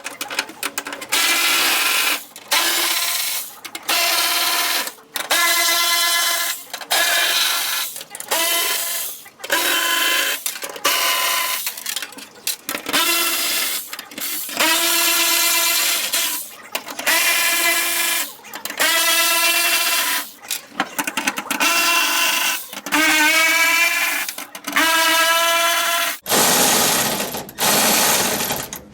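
Hand-held power tool, a drill or air ratchet, whining in repeated short bursts of about a second each, a few of them rising in pitch as it spins up, while driving fasteners.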